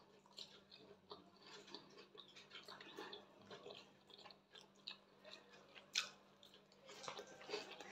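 Faint close-up mouth sounds of a person chewing soft scrambled eggs and roasted plantain: small, irregular wet clicks and smacks, with a sharper click about six seconds in as a new mouthful goes in.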